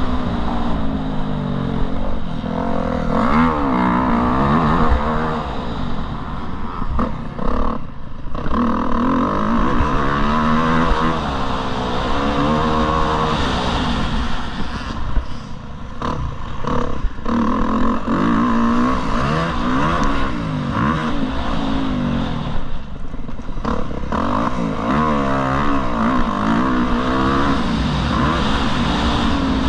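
Motocross bike engine being ridden hard, its pitch rising and falling again and again as the throttle opens and closes, with a few brief throttle cuts along the way.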